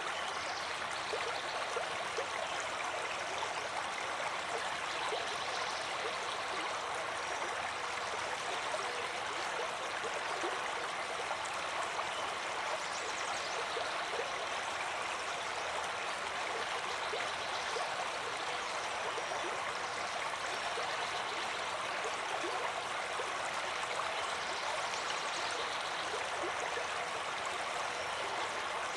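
Water flowing in a stream, a steady, even rush with small gurgles and trickles throughout.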